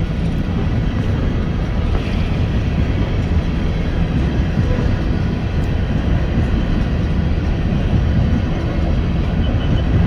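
BNSF freight train's cars rolling past at close range: a steady rumble of steel wheels on the rails.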